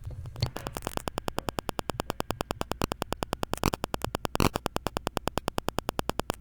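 Razer Seiren X USB microphone picking up a rapid, regular crackle of about ten clicks a second, with a few louder clicks, as it sits near a laptop. The owner traced this interference to the laptop's Wi-Fi Direct virtual adapter being enabled; disabling that adapter stops it.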